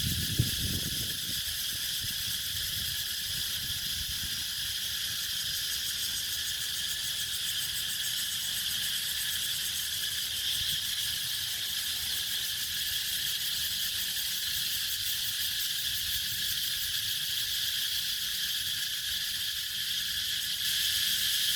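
Cicadas calling, a continuous steady high-pitched drone: the first cicadas of the summer season.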